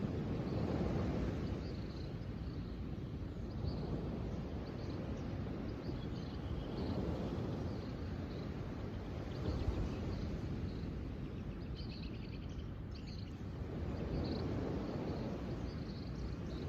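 Outdoor nature ambience: a low rushing noise that swells and fades every several seconds, with small birds chirping briefly and repeatedly throughout.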